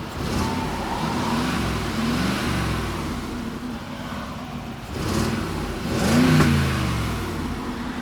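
2019 Mercedes G500's twin-turbo V8 exhaust, heard at the tailpipes, revved several times from idle, with the strongest rev about six seconds in.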